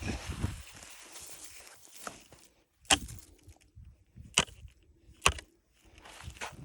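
Digging shovel working muddy ground: scraping at first, then three sharp knocks about a second and a half and then a second apart.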